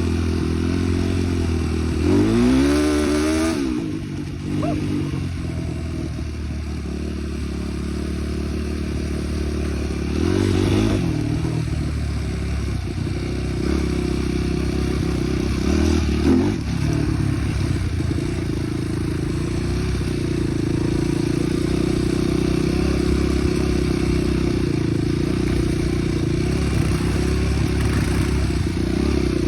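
Small off-road vehicle engine running under way. It revs up and down about two seconds in, and again briefly around ten and sixteen seconds in.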